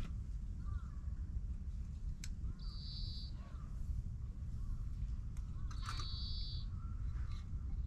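Outdoor ambience: a steady low rumble, with a bird giving a short, high call twice, about three seconds apart, and a few faint clicks.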